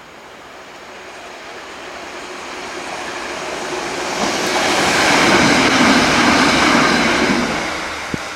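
A Class 777 electric multiple unit passing at speed: its running noise builds to a peak about five to six seconds in, then fades as it moves away. A single sharp click comes near the end.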